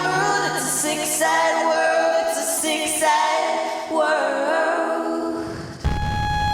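A song with layered singing voices. The low backing drops away about a second and a half in, leaving mostly voices, and a held note with bass comes in near the end.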